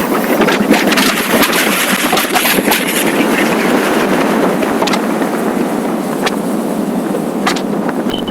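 Motorcycle riding at speed, a steady loud rush of wind and road noise over the microphone with the engine running underneath.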